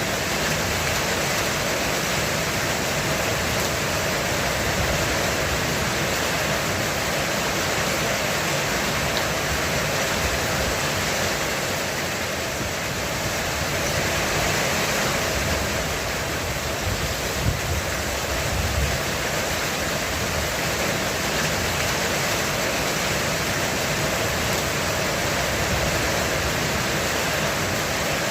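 Heavy rain falling steadily on a roof, a dense, even hiss of drops. A brief low rumble of thunder comes in about two-thirds of the way through.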